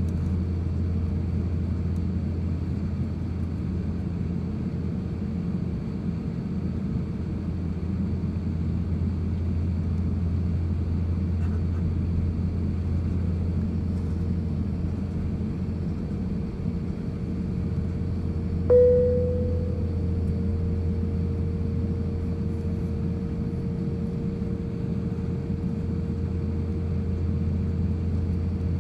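Steady low drone of an Airbus A350-1000 heard from inside the cabin, its Rolls-Royce Trent XWB engines running at a constant setting. About two-thirds of the way through, a sudden click with a short tone stands out, after which a faint steady tone remains.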